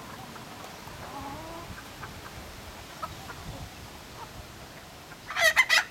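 Chickens clucking faintly, then a loud burst of several sharp squawks near the end.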